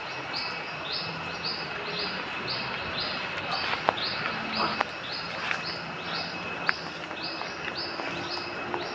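A bird repeating a short high chirp about twice a second, over a steady thin high tone, with a few sharp knocks, the loudest about four seconds in.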